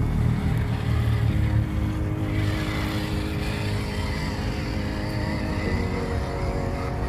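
Radio-controlled MAN dump truck running, its motor and drivetrain giving a steady low rumble. A steady hum sets in about a second in and stops near the end.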